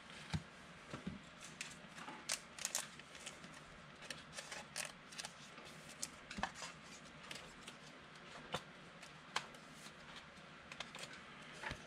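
Faint, irregular clicks and rustles of football trading cards being handled and slid through by hand.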